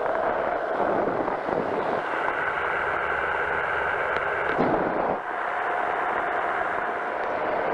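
Powered parachute's engine and propeller running steadily in flight, with wind rushing over the microphone. The engine note shifts, with a brief dip in loudness, about five seconds in.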